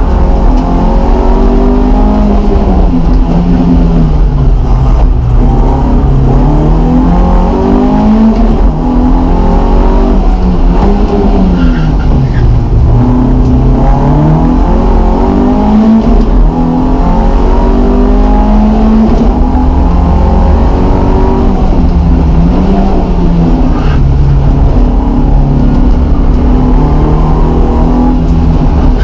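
BMW E30 318is four-cylinder engine, heard from inside the cabin, driven hard: the revs climb and drop again and again as the car accelerates, changes gear and slows for the corners.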